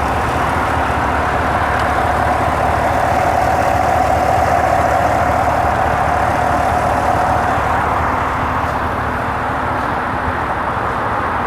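2018 GMC Yukon Denali's 6.2-litre V8 idling steadily under the open hood, with a steady whine over the engine note.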